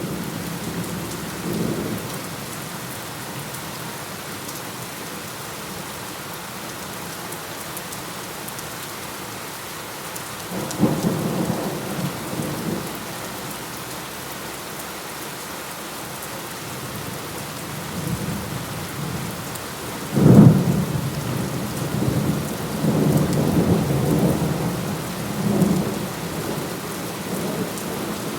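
Thunderstorm: steady rain falls throughout, with rolls of thunder. There is a brief rumble about a second in and a longer one around ten seconds in. The loudest is a sudden clap about twenty seconds in that rumbles on for several seconds.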